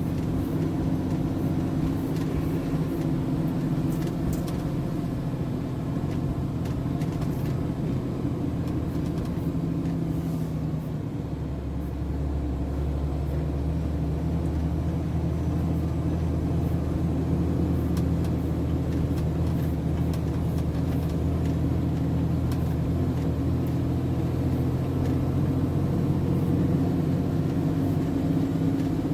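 MAN TGS 33.480 heavy truck's diesel engine running steadily under way, a deep low drone coming in partway through and holding.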